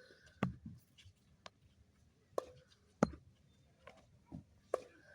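Tennis ball struck by rackets and bouncing on the court during a rally: a run of sharp pops and thuds, about six in five seconds, at uneven intervals.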